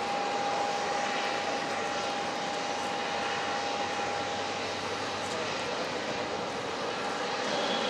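Airliner engines running steadily, a constant rushing noise with a steady whine through it.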